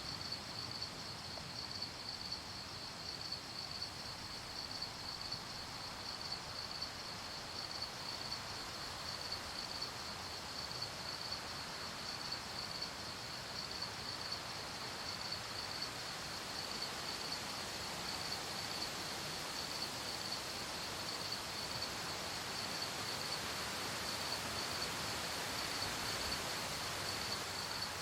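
Crickets chirping in a steady, evenly pulsing high trill, over a soft, even hiss that grows a little louder toward the end.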